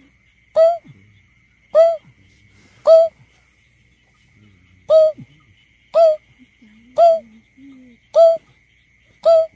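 Greater painted-snipe giving its deep hooting call, a lure recording: eight short hoots, roughly one a second, with a longer pause after the third. A faint steady high whine runs beneath.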